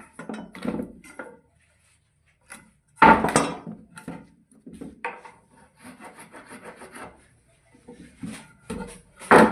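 Wood being worked by hand: irregular knocks and scraping, rubbing strokes. A loud knock comes about three seconds in and another near the end, with a run of lighter strokes, about three or four a second, between them.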